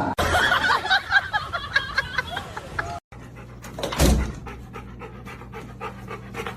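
A dog panting quickly, a run of short breaths several a second, after a cut about three seconds in. The first few seconds hold a jumble of short, high squeaky sounds.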